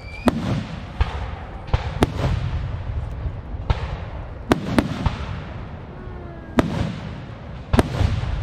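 Aerial fireworks shells bursting in a display: about nine sharp booms, some in quick pairs, each trailed by crackling and a low echoing rumble.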